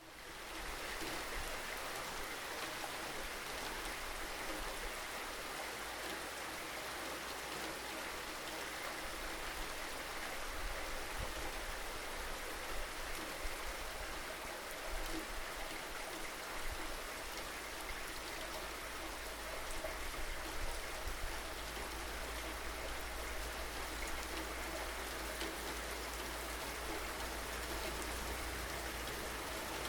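Steady rain: a dense, even hiss with scattered louder drops and a steady low rumble underneath. It swells in from silence in the first moment.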